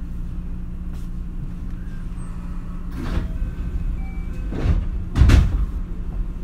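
Interior sound of a JR West 223 series electric train: a steady low hum, broken by three brief rushing noises about three, four and a half and five seconds in, the last the loudest.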